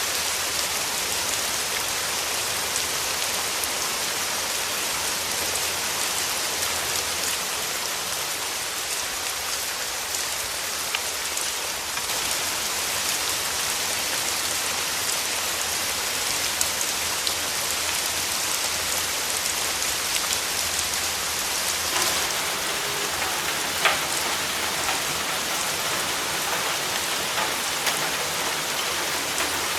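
Steady rain falling, a dense even hiss with scattered individual drops ticking on a surface, one slightly louder drop tick about three-quarters of the way through.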